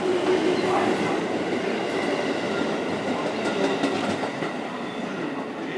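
JR West 221 series electric train running along the station platform and pulling away, a steady rumble of wheels on rail that slowly fades.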